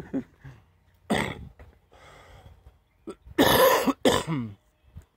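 A man coughing and clearing his throat in a few short bursts, the loudest about three and a half seconds in.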